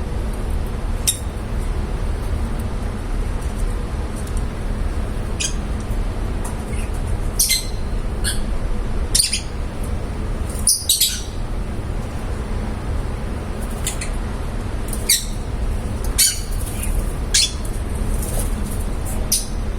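Lovebirds giving short, sharp, high-pitched chirps and squawks, a dozen or so at irregular intervals, over a steady low hum.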